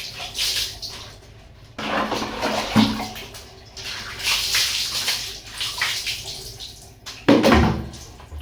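Water being poured and splashing over a dog during its bath, in irregular pours, with louder splashes about two seconds in and near the end.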